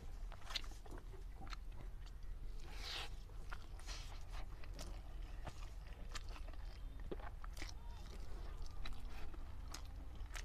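Close-up chewing and mouth sounds of a person eating rice and black chickpea curry by hand: irregular wet clicks and soft crunches, over a steady low hum.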